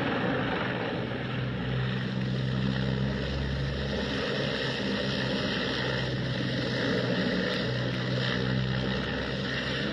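A motor running steadily, with a loud rushing noise over its low hum.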